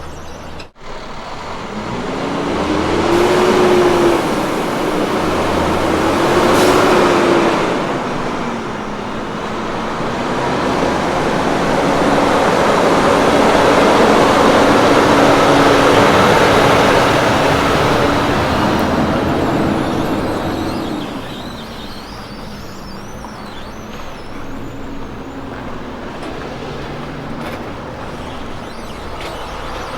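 A road train's diesel prime mover working up through the gears: the engine note rises twice, then holds steady and loud as the rig goes by with tyre and road noise, and fades away.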